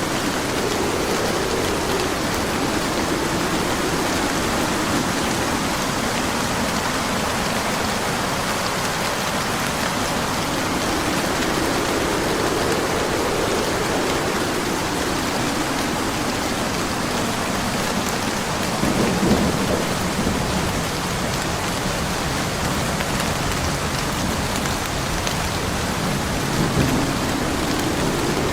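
Steady heavy rain hissing, with thunder rolling in low rumbles now and then; the loudest rumble comes about two-thirds of the way through, and another builds near the end.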